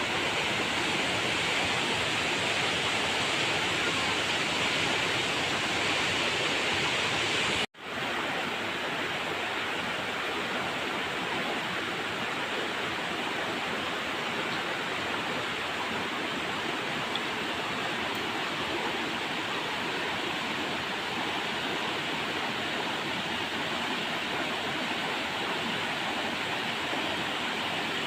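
River water flowing steadily. About eight seconds in it cuts out for an instant, then resumes a little softer in the upper range.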